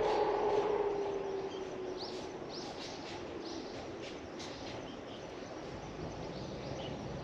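Small birds calling with a run of short, sharp chirps from about two to four and a half seconds in, over a steady outdoor background hum. A passing vehicle fades away during the first two seconds.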